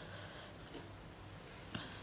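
Faint close-up eating sounds: a mouth chewing food, with one small click or smack a little before the end.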